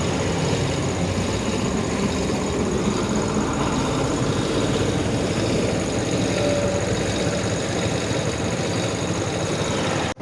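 Motorcycle engine idling steadily with no throttle, being warmed up on fresh engine oil. It cuts out abruptly right at the end.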